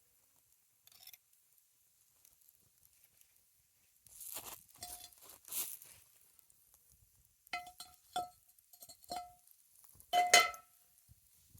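A utensil scraping against cookware, then several light clinks that each ring briefly at the same pitch. The loudest clink comes near the end.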